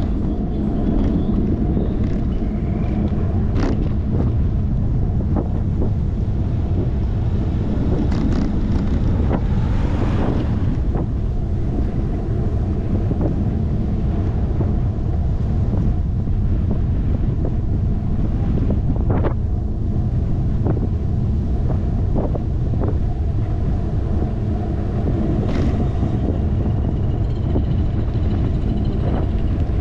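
Wind buffeting a handlebar-mounted GoPro on a moving bicycle: a steady low rumble, with scattered short clicks from the bike as it rolls over the road.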